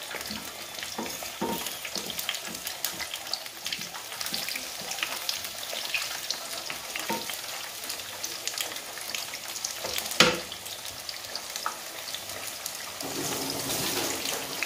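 Sweet potato slices frying in hot oil in a pan: a steady sizzle full of small crackles, with a wooden spatula moving the slices and one sharper knock about ten seconds in.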